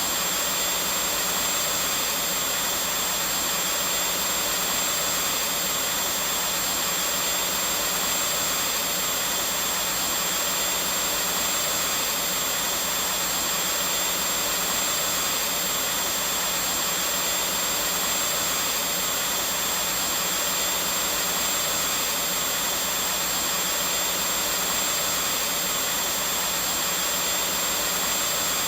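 Vacuum cleaner running steadily: a continuous, even whooshing hiss of motor and airflow with a thin, high steady whine, unchanging throughout.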